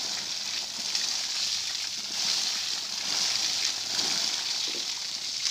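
Water from a hose spraying onto freshly cast concrete to cure it: a steady hissing splatter that swells and eases a little.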